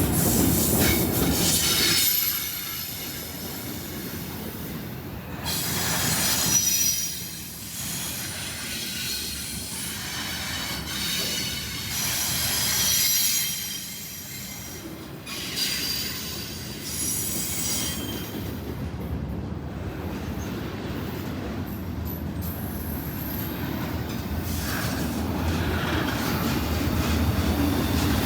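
Freight train cars rolling past with a steady rumble, and wheels squealing in high-pitched bursts that come and go several times; the rumble grows louder near the end.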